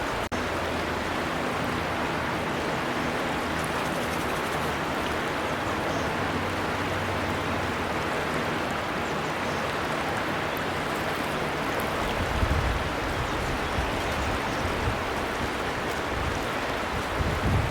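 Steady rushing of a flowing river, with a brief dropout just after the start and low rumbles about twelve seconds in and again near the end.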